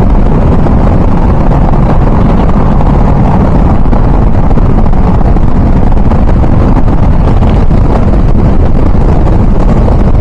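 Steady motorcycle riding noise through a tunnel: wind rush and a deep hum picked up by a helmet-mounted mic under a foam and fur windscreen, loud and unbroken.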